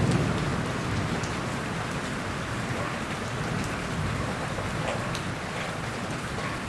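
Steady rain falling, with scattered single drops ticking through it. A low rumble dies away right at the start.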